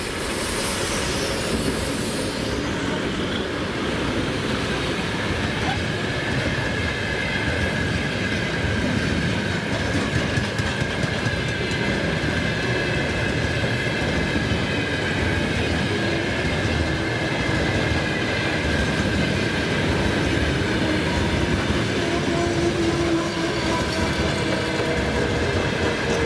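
Freight train of hopper wagons rolling past, wheels clattering over rail joints in short regular clicks, with a steady high whine running through it.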